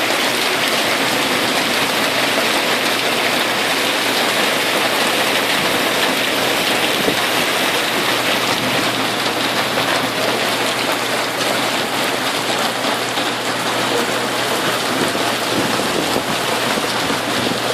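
Heavy rain pouring down and splashing on hard ground, a steady, even hiss.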